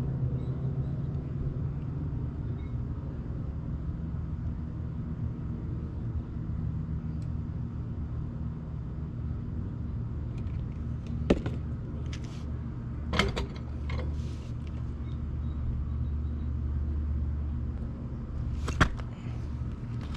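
A steady low engine rumble, with three sharp knocks or clanks about eleven, thirteen and nineteen seconds in.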